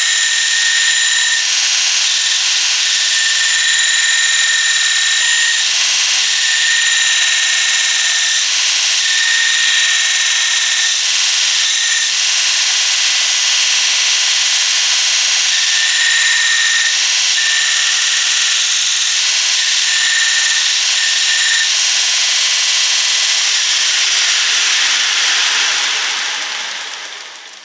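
Electric power tool, such as a grinder, working the steel of an old saw blade: a steady loud hiss with a high whine that comes and goes. It dies away near the end.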